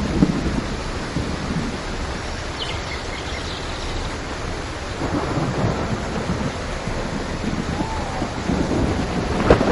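Heavy rain falling steadily with thunder rumbling and crackling underneath; the thunder swells near the end with a sharp crack.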